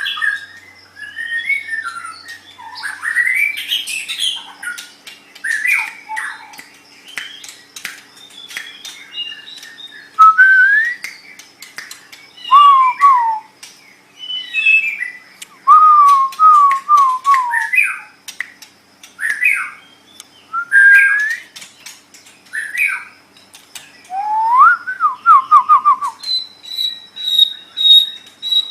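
White-rumped shama (murai batu) singing a varied song of loud whistled phrases, with quick runs of falling notes and sharp clicks between them. Near the end it holds one long, steady high whistle.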